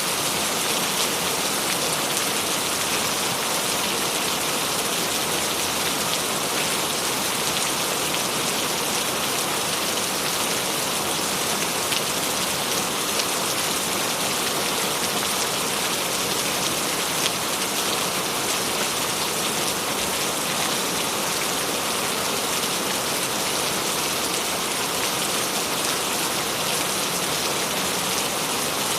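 Steady, even rainfall, with a dense hiss of drops falling on a surface and faint scattered individual drop ticks.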